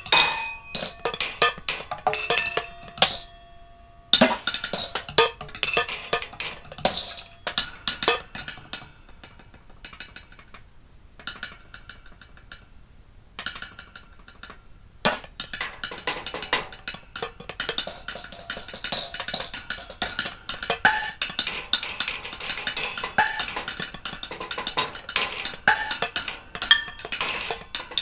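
Improvised percussion played on dishes and plates: rapid clattering strikes and clinks, some leaving a short ringing tone. About eight seconds in it drops to sparse, quiet taps, and dense clattering resumes about halfway through.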